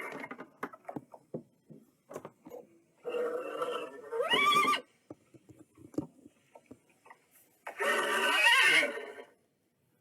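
A horse whinnying twice, each call about a second and a half long, the first ending in a rising pitch; a few short knocks come before the calls.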